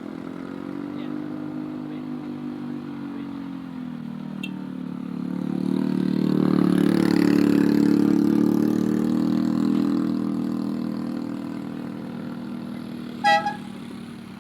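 A vehicle engine labouring up a steep hill climb. Its pitch dips and rises as it pulls, and it swells to a peak midway before fading. A brief, loud, high tone sounds near the end.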